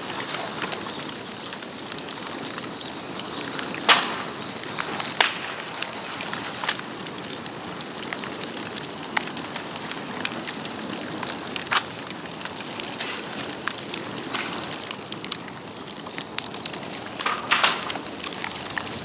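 Bamboo bonfire burning with a steady crackle and sharp pops every few seconds; the loudest pops come about four seconds in and near the end.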